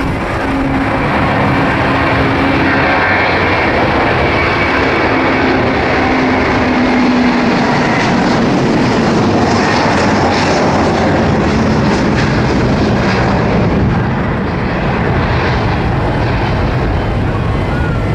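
Airbus A330 airliner's jet engines running loud and steady in a dense rush of engine noise, with a low hum that slides slightly down in pitch over the first several seconds.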